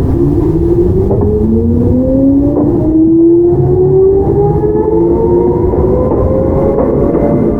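Traction motors of a Toyama Chiho Railway 17480 series (ex-Tokyu 8090) field-chopper EMU whining in a steadily rising pitch as the train accelerates, over the rumble of wheels on the rails, heard from inside the car.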